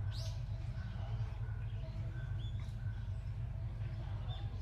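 A small bird chirping: a quick high falling squeak at the start and a few fainter short calls later, over a steady low hum.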